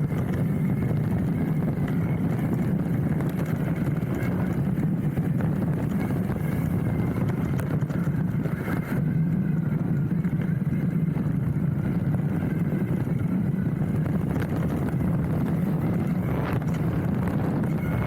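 Hardtail mountain bike riding down a dirt trail, heard through its handlebar-mounted camera: a steady rumble of tyres and frame vibration with many small rattles and clicks.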